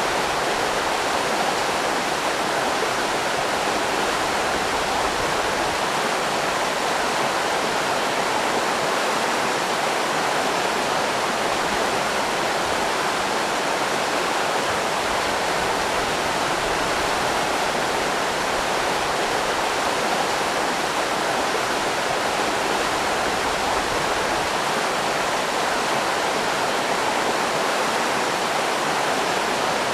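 River rapids rushing steadily, a constant even wash of water noise.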